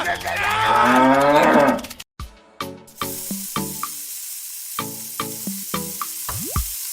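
A cow mooing, one long bending call that cuts off abruptly about two seconds in. After a short gap, light music with plucked notes plays over a steady hiss.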